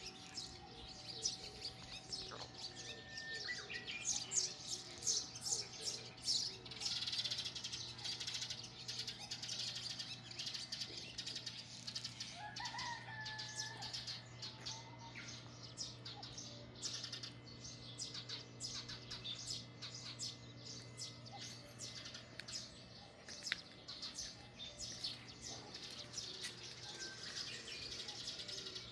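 Many small birds chirping in quick, overlapping high calls, with a few longer whistled notes about twelve seconds in, over a steady low hum.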